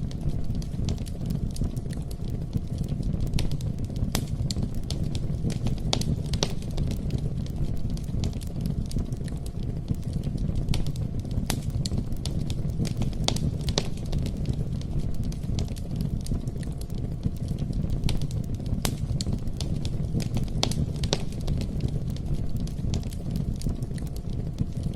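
Wood fire burning, crackling with frequent sharp pops over a low steady rumble.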